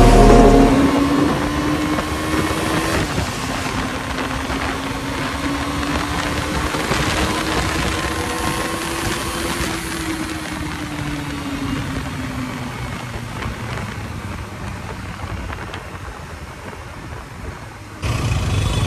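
Motorcycle engine running on the move, its pitch slowly rising and then easing off, over rushing wind noise. Near the end it cuts suddenly to a louder, lower rumble.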